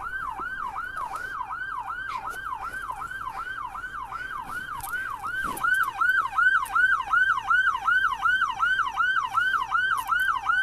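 Police car sirens on the yelp setting: a fast wail sweeping up and down about three to four times a second. It gets louder about halfway through as a second siren's sweep joins in.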